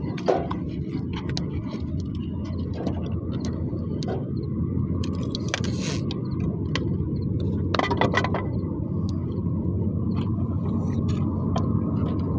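Wood fire crackling, with scattered sharp pops and clicks, over a steady low rumble.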